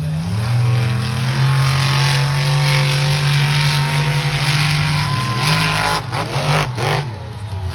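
Monster truck engine held at high, fairly steady revs, its pitch creeping up slowly. About six seconds in it drops off briefly, then picks back up near the end.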